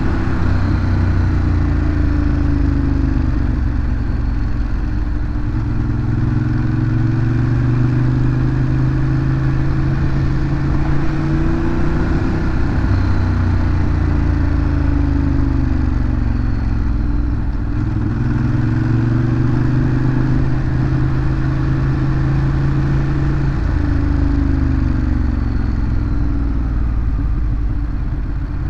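Ducati Monster 821's L-twin engine on the stock exhaust, ridden continuously, its note rising and falling several times as the bike accelerates and eases off.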